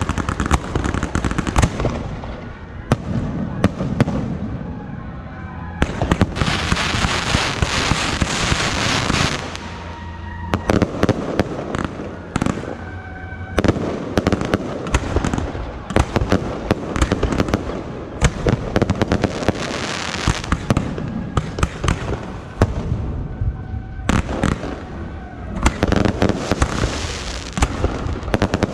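Fireworks fired in rapid succession from an electronically triggered launch cart: a steady run of sharp bangs, with two long stretches of dense crackling, one about six seconds in and one near the end.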